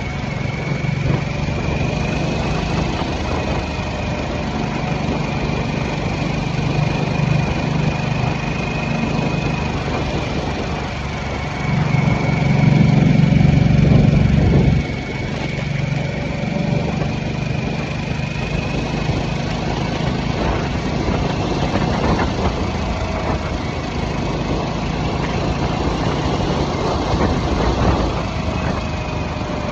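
2023 Harley-Davidson Nightster's Revolution Max 975T V-twin running steadily while cruising. Its note swells louder for about three seconds under more throttle around the middle, then drops back suddenly as the throttle closes.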